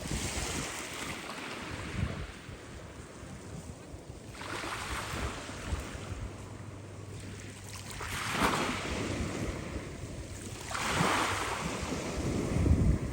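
Black Sea waves breaking and washing in, four surges about every three to four seconds, with wind buffeting the microphone.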